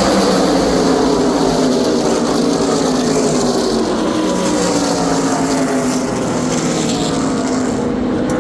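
NASCAR Craftsman Truck Series race trucks' V8 engines at racing speed. Their engine note falls slowly and steadily in pitch as the pack runs away, and a fresh, higher engine note comes in near the end as more trucks approach.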